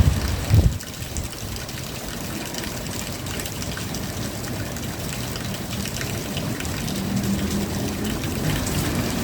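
Steady rain falling, with scattered drops pattering and ticking on surfaces. Two low thumps sound in the first second.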